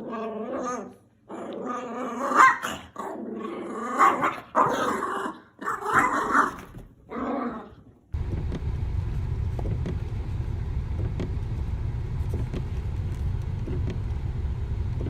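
A dog growling and barking in a run of short calls, which stop suddenly about eight seconds in; then a steady low rumble with faint ticks.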